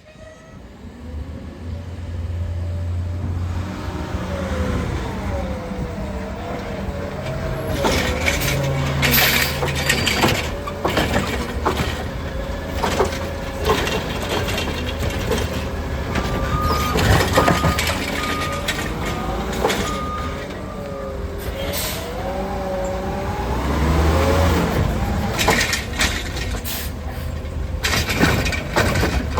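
Heavy garbage truck working its route: the engine note rises and falls over and over, with sharp air hisses and clanks at times and a short run of evenly spaced beeps about halfway through.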